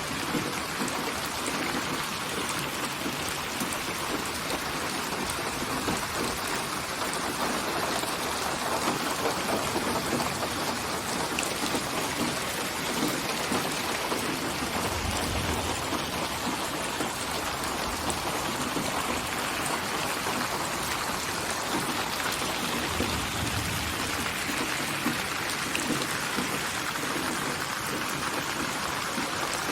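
Steady rain falling, an even hiss of many drops, with two brief low rumbles about halfway and about three-quarters through.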